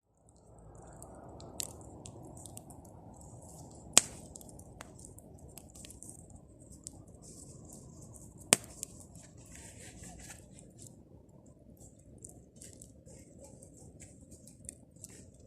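Bonfire of pruned tree branches burning: a steady low rush of flame with scattered small crackles, and two sharp pops from the wood, about four seconds in and again about four seconds later.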